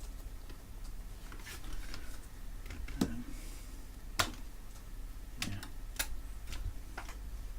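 Irregular light clicks and taps, about six spread over several seconds, from handling tools and circuit-board parts on a workbench, over a steady low hum.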